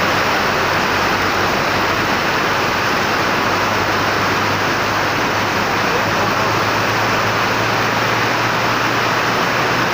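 Heavy tropical rain and rushing runoff water make a loud, steady hiss. A low, steady engine hum runs underneath.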